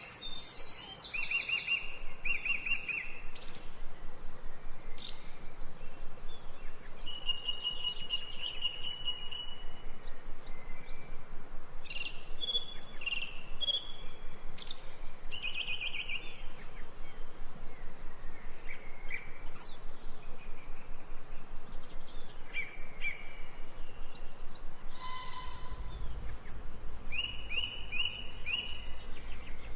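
Ambient birdsong: several birds chirping, with short repeated chirps, trills and an occasional held whistle. A low rumble comes in underneath near the end.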